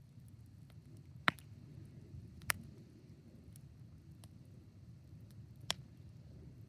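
Wood fire in a fire pit crackling: three sharp pops, about a second in, about two and a half seconds in and near the end, among fainter ticks over a low steady rumble.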